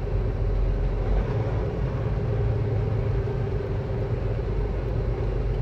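Semi-truck's diesel engine running steadily at low speed, a constant low rumble with a steady hum over it.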